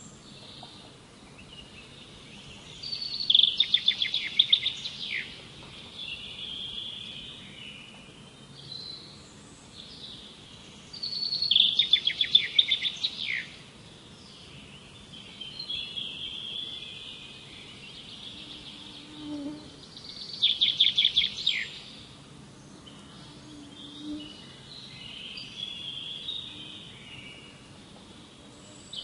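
Birdsong: one bird sings a loud, fast trilled phrase of about two seconds three times, roughly every eight or nine seconds, with quieter twittering and chirps from other birds in between.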